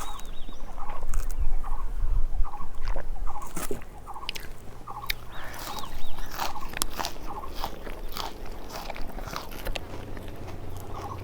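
Close-up chewing and biting of rice and fish curry, with irregular wet mouth clicks and smacks.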